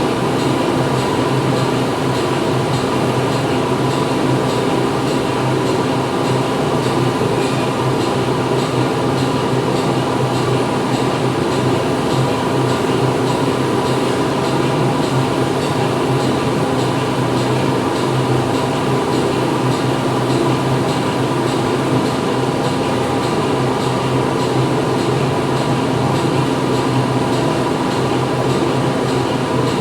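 Steady factory floor machinery noise: a dense, continuous mechanical din with a low hum and a faint steady whine, unchanging throughout.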